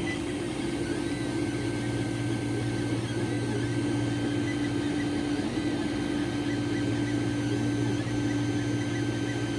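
Two Creality Ender 3 3D printers running: a steady fan hum, with the stepper motors whining in short sliding tones that change every second or so as the print heads move.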